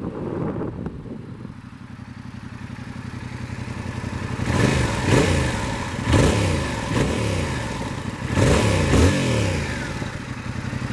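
2021 Yamaha MT-07's 689 cc parallel-twin engine through its stock exhaust, idling, then blipped about six times in quick succession from about four and a half seconds in, each rev rising and dropping back toward idle.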